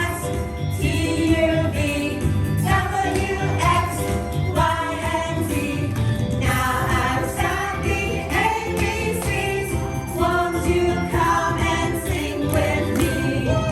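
A song: a group of voices singing together over musical accompaniment.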